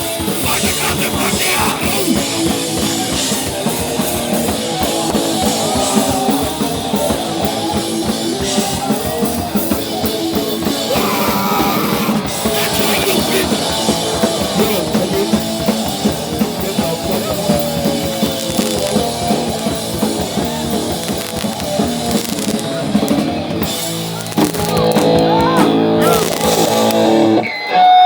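Hardcore punk band playing live, heard loud from inside the pit: pounding drum kit, distorted guitars and vocals. Near the end the band holds a final sustained chord, which cuts off abruptly just before the end.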